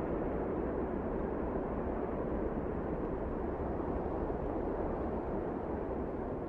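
Wind blowing steadily: a deep, even rush with no single gust standing out.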